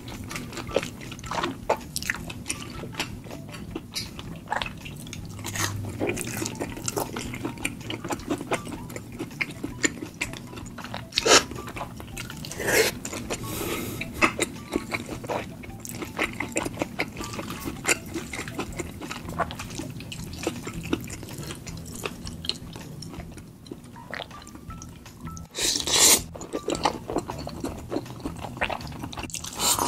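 Close-miked chewing of spicy tteokbokki rice cakes and ramen noodles, with many short wet smacks and clicks of the mouth. There are a few longer wet slurps, the loudest near the end.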